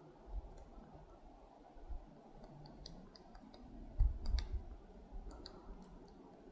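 Hairy woodpecker tapping and picking at tree bark while foraging: irregular soft taps and clicks, the loudest cluster about four seconds in.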